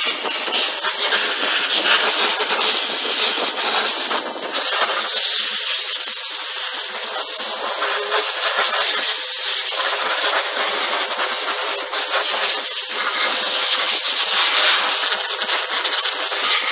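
High-pressure washer jet spraying water onto a mini tractor, a loud steady hiss with a faint steady tone under it.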